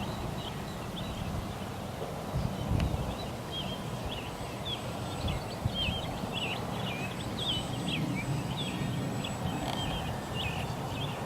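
Wind gusting on the microphone, with small birds chirping over and over throughout.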